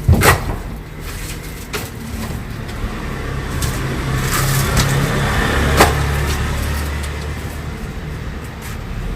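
A road vehicle running, with a steady low hum and noise that swells through the middle. Two sharp knocks stand out: one just after the start and a louder one a little under six seconds in.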